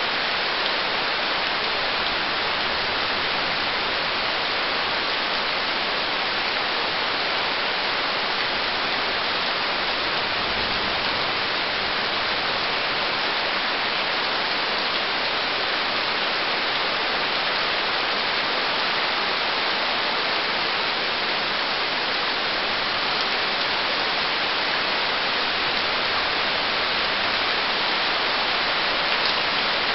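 Heavy rain pouring down steadily, a constant even hiss with no letup.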